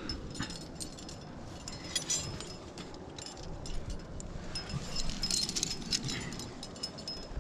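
Metal climbing gear, carabiners and hardware on a harness, clinking and jangling irregularly, busiest about two seconds in and again past the middle.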